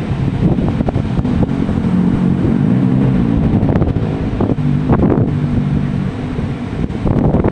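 Heavy wind buffeting the microphone, a dense low rumble over ocean waves.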